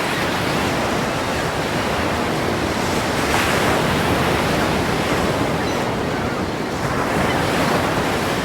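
Ocean waves crashing against a pier: a continuous wash of surf that swells louder about three seconds in and again near the end.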